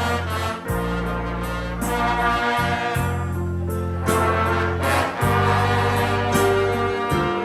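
Music from a band with brass instruments, such as trumpets and trombones. Held notes over a low bass line that changes pitch every second or two.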